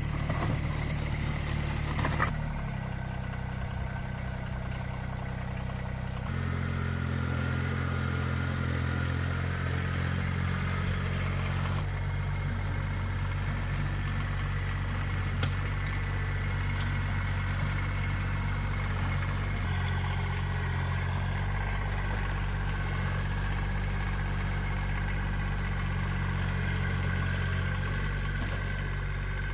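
A vehicle engine running steadily, its note changing in steps several times as the engine speed shifts.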